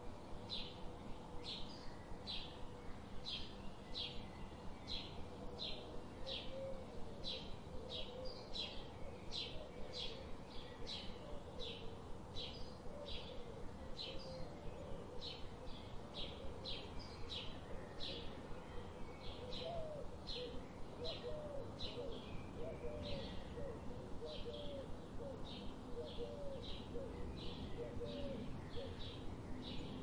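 Birds chirping: a steady run of short, high chirps about two a second, with quieter, lower hooked calls from another bird joining in partway through.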